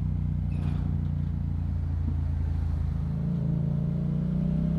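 Yamaha MT-07's parallel-twin engine through a Yoshimura exhaust, running at low road speed, its note rising a little about three seconds in as the bike picks up speed.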